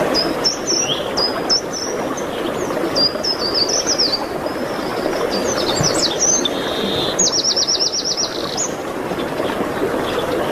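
Songbirds singing: a string of short, high chirped phrases, with a fast trill of about eight notes about two-thirds of the way in, over a steady low rushing noise.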